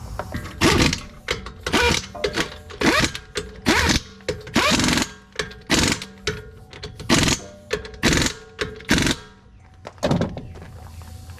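Impact wrench running the lug nuts onto a wheel in a string of short rattling bursts, some brief and some held for about half a second.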